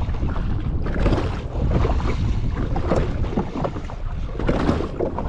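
Wind buffeting the microphone over sea water sloshing and splashing against a jetski on the open ocean: a steady rough rush with uneven gusts and splashes.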